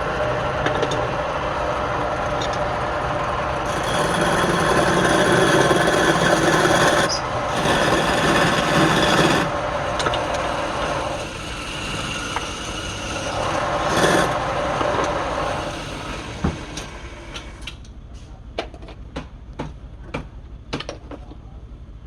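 Wood lathe running steadily while a tool rubs and rasps against the spinning wood, loudest about four to nine seconds in. Near the end the lathe falls quiet and a series of light taps follows.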